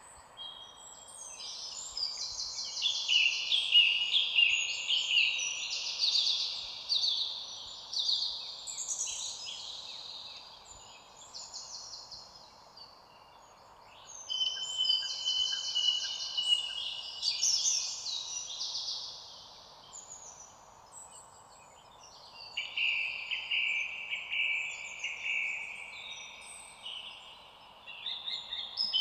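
Songbirds singing in three long bouts of quick, overlapping trilling and chirping phrases, with short lulls between, over a faint steady background hiss.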